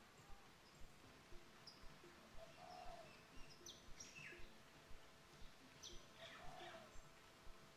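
Near silence with faint birds calling: scattered short high chirps and a couple of quick falling whistles, and a soft low coo every few seconds.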